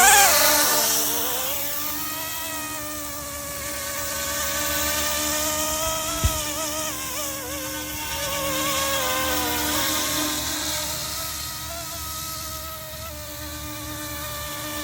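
RC scale Coast Guard helicopter's brushless motors and four-blade rotor running with a steady buzzing whine, the pitch wavering slightly up and down with throttle. A single sharp click about six seconds in.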